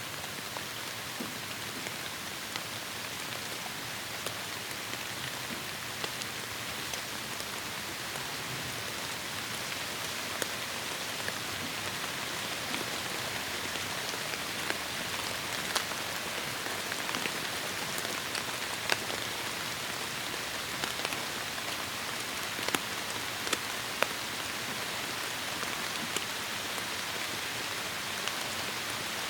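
Heavy rain falling on forest foliage: a steady hiss with scattered close, sharp drop impacts.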